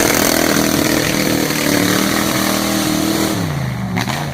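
Mud truck's engine running hard at high revs with heavy noise over it, then the revs drop and waver about three seconds in.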